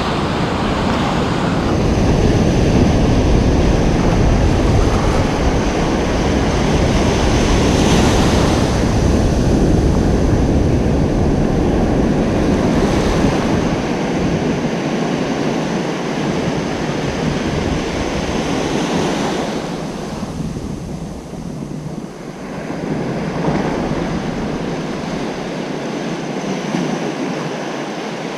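Ocean waves breaking and washing up a beach: a continuous rush that swells and ebbs, easing off about twenty seconds in before the next wave builds.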